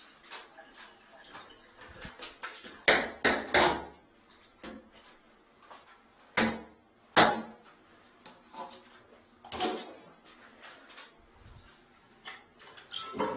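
Irregular knocks and clatters of hard objects, with about five sharper strikes a few seconds apart among fainter clicks.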